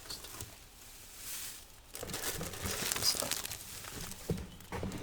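Packaging crinkling and rustling in the hands while an item is unwrapped, in irregular crackly bursts with a few sharp ticks.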